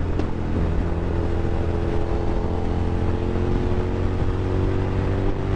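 2001 Suzuki SV650's 645 cc V-twin engine running at a steady cruise while the motorcycle is ridden, its pitch holding level with no revving.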